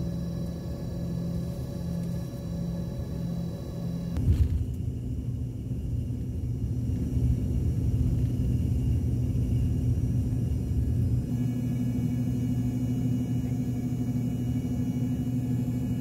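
Airliner cabin during the takeoff roll: the jet engines drone with steady low tones over a heavy rumble from the runway. The rumble comes in sharply about four seconds in and eases about eleven seconds in as the plane lifts off.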